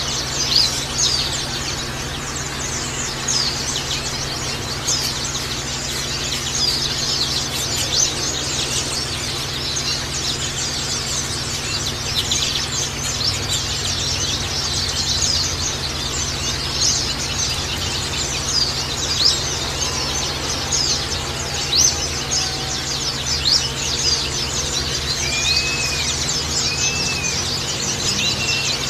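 A group of white-eyes (pleci) chirping and twittering continuously in fast, high, overlapping notes over a steady low background hum. Near the end a few repeated arched, whistled calls stand out.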